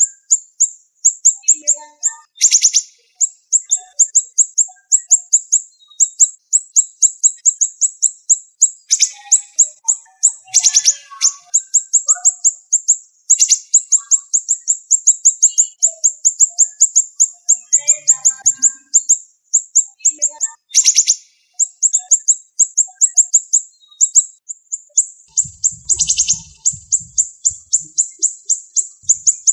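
Siri-siri songbird singing a fast, tight run of sharp, high chirps, several a second without a break, the kind of rapid 'tembakan' phrasing that bird keepers use as a training recording. A few louder, fuller notes stand out from the run about 2.5, 11, 13, 21 and 26 seconds in.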